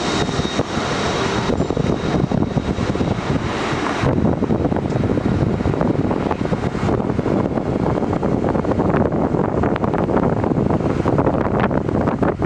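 Jet airliner's engines running as it passes, a high whine fading out in the first couple of seconds and the engine noise settling lower, with wind buffeting the microphone.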